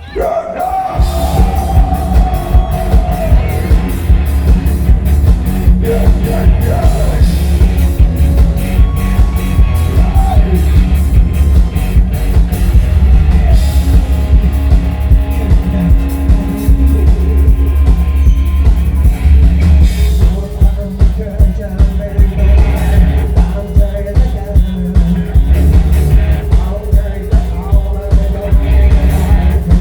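Rock band playing live: a steady, hard-hitting drum beat with electric guitar and bass and a singer's voice. The band comes in suddenly right at the start.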